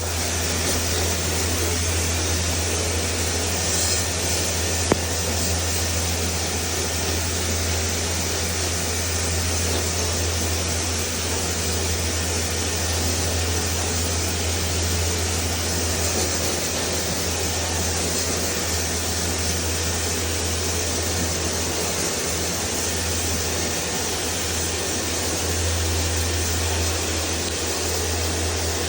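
A steady machine running: a low motor hum under an even hiss, with one short knock about five seconds in.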